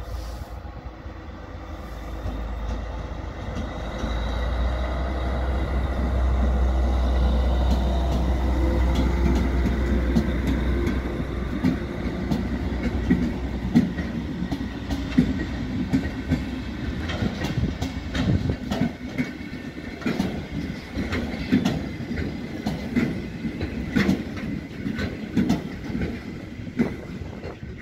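Freight train hauled by a diesel locomotive passing: the locomotive's engine makes a low rumble that builds and is loudest about 4 to 11 seconds in, then the coach and car-carrier wagons roll by with wheels clacking over rail joints and points in many sharp clicks, fading near the end.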